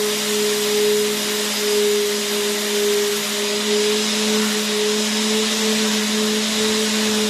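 Vacuum cleaner motor running steadily: an even rushing hiss over a low hum, with a tone that wavers slightly in pitch.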